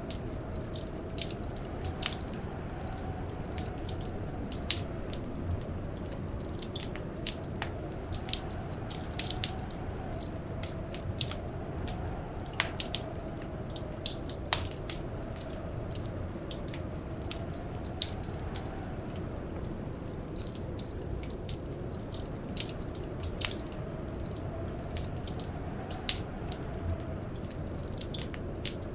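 Wood fire crackling: irregular sharp pops and snaps, several a second at times, over a steady low rumble with a faint tone that slowly wavers up and down.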